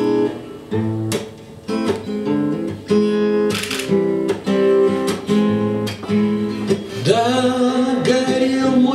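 Acoustic guitar playing a picked and strummed chord introduction to a song. About seven seconds in, a man's voice starts singing over the guitar.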